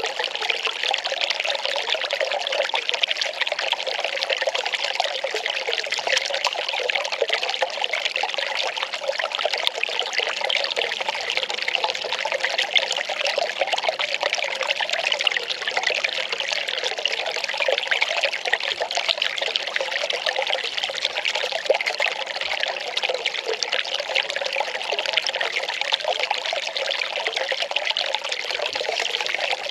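Well water pouring in a steady, unbroken stream.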